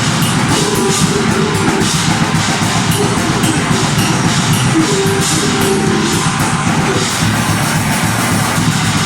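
Deathgrind band playing live and loud: heavily distorted guitars and fast drums in a dense wall of sound, the riff shifting about seven seconds in.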